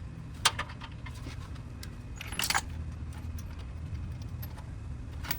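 A few sharp metallic clinks and a short jangle, like metal parts or tools being handled, over a steady low hum.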